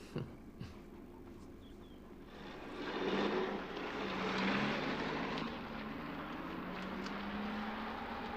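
Two short knocks, then a car engine comes up and runs on, its pitch slowly rising as the car gathers speed.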